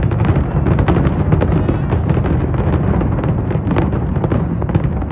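Fireworks display going off in a dense barrage: many sharp cracks and bangs a second over a continuous low rumble.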